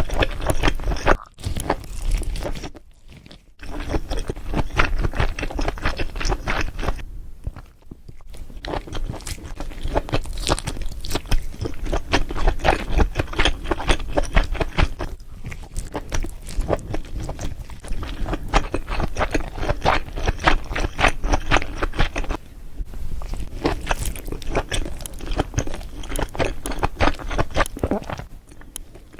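Close-miked eating of seafood boil: wet chewing, biting and crunching, with scraping and crackling, in quick irregular clicks broken by a few short pauses.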